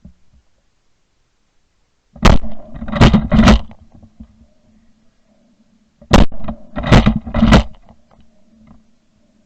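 Shotgun fired three times in quick succession, then a second volley of three about four seconds later, each shot a sharp, very loud report; a faint low hum lingers after each volley.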